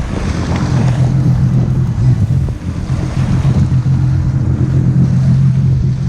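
Sea-Doo RXP-X 300 jet ski's supercharged Rotax three-cylinder engine running at a steady low hum, with wind buffeting the microphone and water noise over it.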